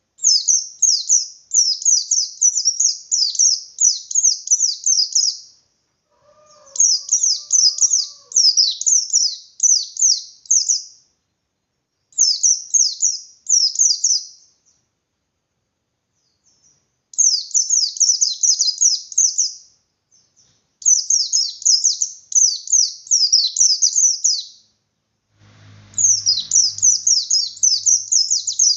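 A white-eye (pleci) sings its rapid, high twittering 'ngalas' song in six phrases of about three to five seconds each, with short pauses between them. It is the combative full song that stirs other white-eyes to answer. A faint low hum comes in near the end.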